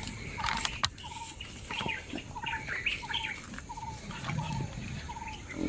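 Birds calling: one bird repeats a short note at an even pace, nearly twice a second, while other birds chirp higher and more irregularly.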